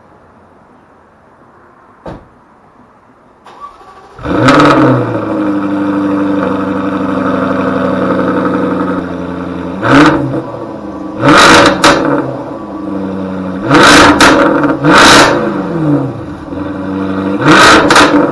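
A 2016 Jaguar F-Type R's supercharged 5.0-litre V8, on its stock exhaust, starts about four seconds in with a loud flare. It settles to a fast idle and is then revved in a series of short, sharp throttle blips.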